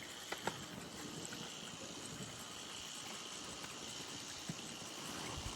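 Steady background hiss with a faint, steady high-pitched tone, and two small clicks about half a second in.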